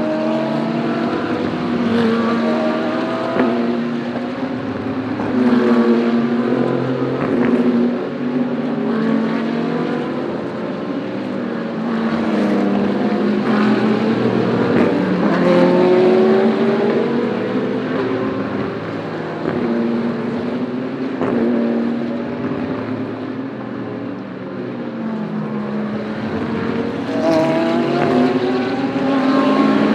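Naturally aspirated V8 GT3 race cars at full pace, engine notes rising through the gears and dropping on shifts, with more than one car heard at once.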